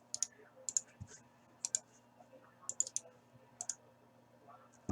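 Light, sharp clicks, mostly in quick pairs or threes about once a second, with a soft low thump about a second in and another at the end, over a faint steady low hum.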